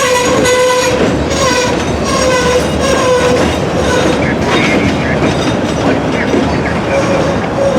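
Freight train cars rolling slowly past, with steel wheels squealing in short repeated whistles on the curved track and wheels clicking over rail joints.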